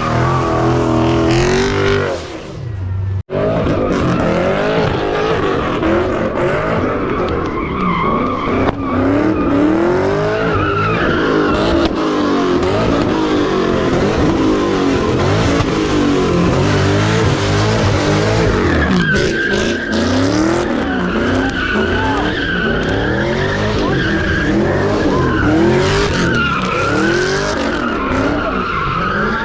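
Car engines revving up and down again and again with tires squealing and skidding, with a brief break about three seconds in.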